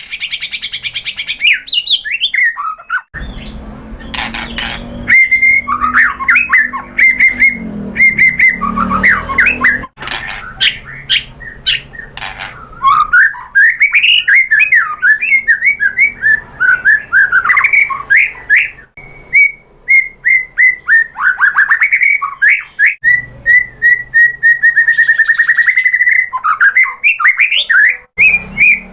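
White-rumped shama (murai batu) singing a long, varied song of loud whistled phrases, pitch glides and rapid chattering trills, with hardly a pause. A low background rumble runs underneath for several seconds near the start.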